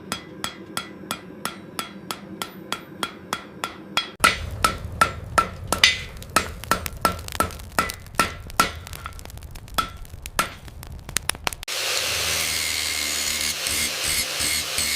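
Hand hammer striking hot steel on an anvil, about three blows a second, each with a short metallic ring. A low hum joins about four seconds in and the blows get louder. Near the end the hammering stops abruptly and a steady hiss takes over.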